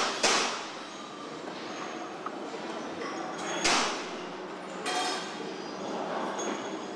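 Truck assembly-plant floor noise: a steady din broken by sharp bangs, the loudest just after the start and again nearly four seconds in, with a short hiss about five seconds in.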